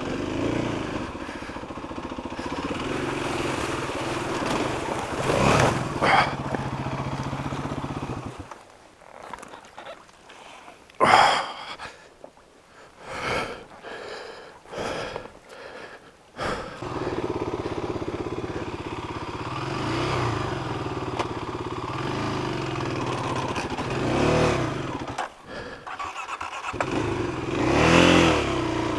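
Kawasaki KLX250's single-cylinder four-stroke engine running and being blipped on a trail. About eight seconds in, the engine sound drops away and a few loud gusts of heavy breathing are heard. The engine is running again about sixteen seconds in, with several rises in revs.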